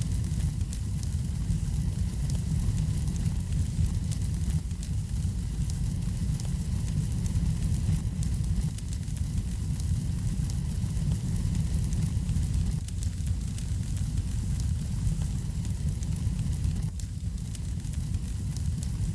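Wood fire burning in a fireplace: a steady low rumble of the flames with many small, quick crackles and snaps scattered throughout.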